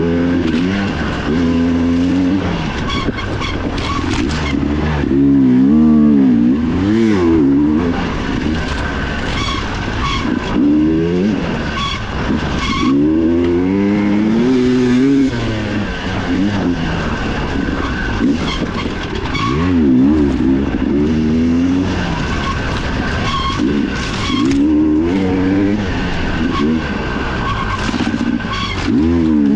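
Dirt bike engine heard on board during a race, revving up and dropping off again and again as the rider gasses and brakes along the trail.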